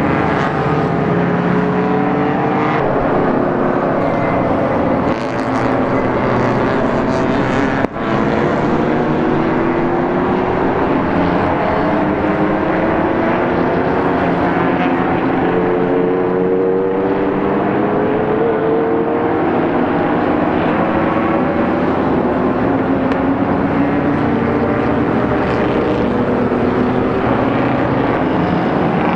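Race car engines running hard on track, their pitch climbing again and again as they accelerate through the gears, with a brief sharp drop about eight seconds in.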